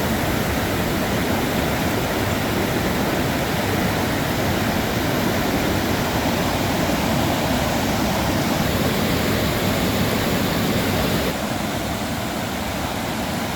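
Steady rush of a fast-flowing river tumbling over rocks, a little quieter from about eleven seconds in.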